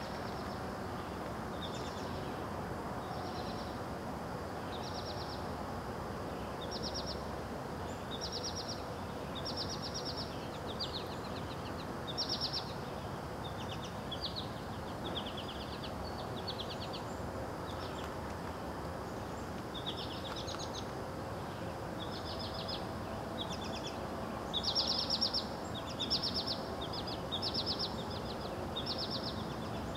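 Birds chirping in short, rapid trills, one call after another about every second, over a steady background hiss; the calls are loudest near the end.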